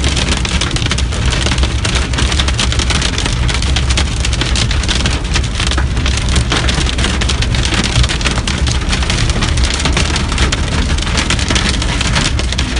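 Heavy rain mixed with hail beating on a car's roof and windshield, heard from inside the cabin: a dense, loud patter of hard hits over a steady low rumble.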